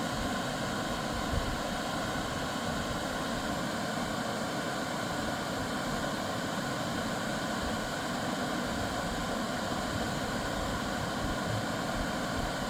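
Small waterfall rushing and splashing over rock in a steady, unbroken roar of water.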